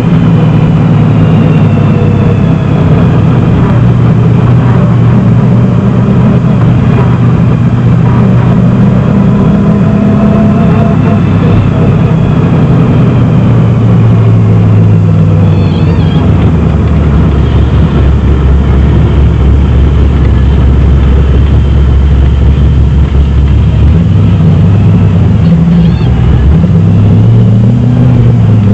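Chevrolet 327 small-block V8 in a 1971 Datsun 240Z, heard from inside the cabin, running loud under varying throttle. Its note drops lower and deeper for a stretch in the middle, then rises again near the end.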